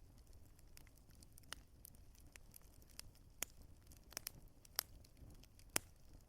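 Wood fire crackling, with irregular sharp pops over a faint low rumble; the loudest pop comes near the end.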